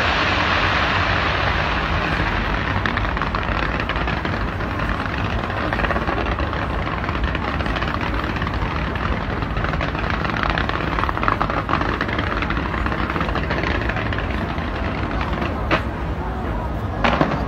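A dense fireworks display: a continuous rumble and crackle of many overlapping bursts, with a few sharper bangs near the end.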